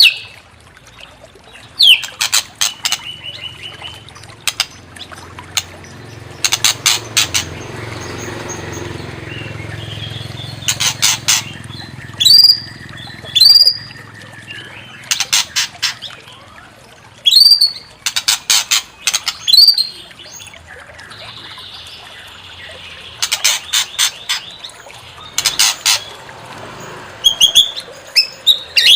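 White-rumped shama song: repeated bursts of fast harsh chattering alternating with short rising whistles, over a faint steady hiss.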